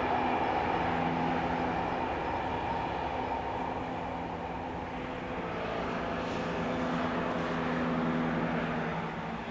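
Passenger train running across a stone viaduct and drawing away, a steady drone with a higher hum that fades over the first few seconds. About halfway through, further steady tones join and the drone swells before falling off near the end.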